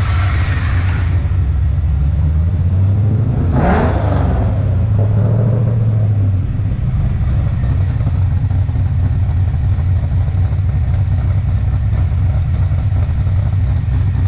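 LS V8 engine in a BMW E46 idling, with a brief rev about three and a half seconds in that holds a little higher for a couple of seconds before dropping back to a steady idle.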